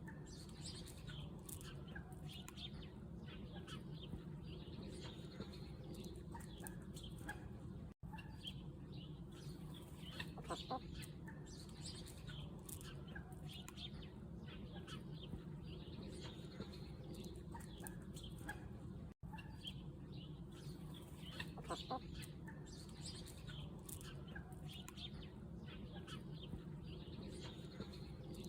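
Chickens clucking, with many short scattered calls and chirps over a steady low hum.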